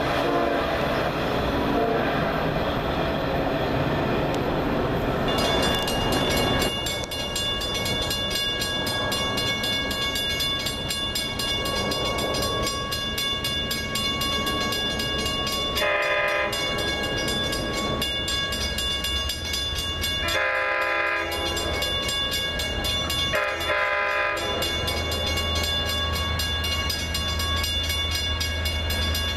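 A diesel train runs past on the rails. Then a locomotive horn sounds three blasts, a short one followed by two longer ones, while a low diesel engine hum grows stronger near the end.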